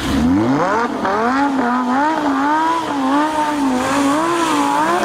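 Off-road vehicle's engine revving hard: the pitch rises steeply at the start, then is held high and wavers up and down.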